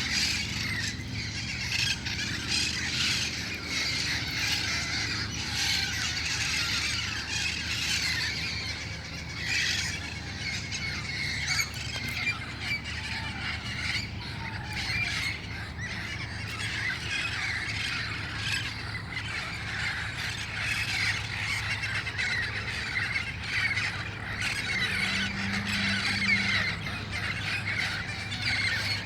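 A flock of wild red-faced parrots squawking and screeching, many harsh overlapping calls at once, over a steady low hum.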